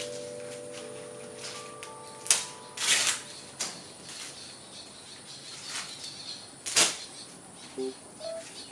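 Sweet corn husks being peeled: a few sharp, crackly tearing rips, the loudest about two, three and seven seconds in, with softer rustles between. Soft background music notes fade out early and start again near the end.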